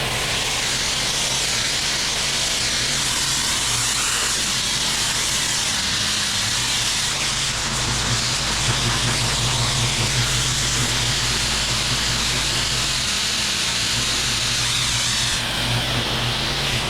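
Gas-engine pressure washer running, its high-pressure water jet hissing steadily over the engine's low, even hum.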